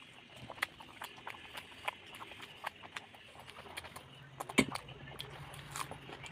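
Eating sounds: scattered small wet clicks and smacks of chewing and of rice and fish being eaten by hand, with one louder click about four and a half seconds in. A low steady hum comes in about four seconds in.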